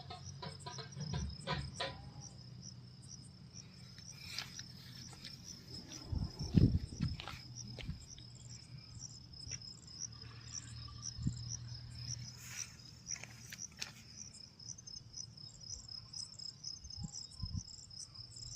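Insects chirping in a steady, high, pulsing trill. Scattered clicks and knocks sound over it, the loudest a cluster of thumps about six to seven seconds in.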